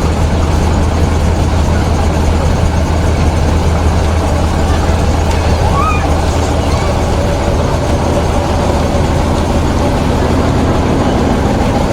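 Heavy truck engine running steadily, a loud low drone.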